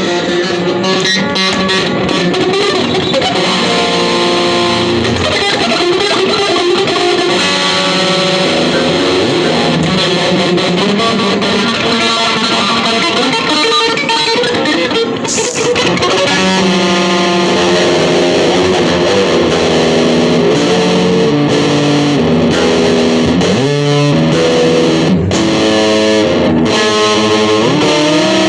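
Electric guitar music with effects and distortion, playing a melody of held notes over a dense sustained backing.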